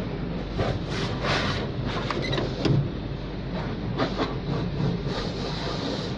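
Car wash running: a steady rush of water spray and machinery, with several louder swishes and knocks.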